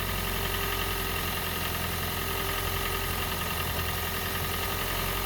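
Toyota Prius Gen 2 1.5-litre petrol engine running steadily at idle in its first seconds after a no-start fault, just brought to life after repeated attempts to start it.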